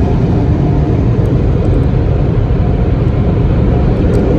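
Automatic car wash equipment running, heard from inside the car: a loud, steady low rumble.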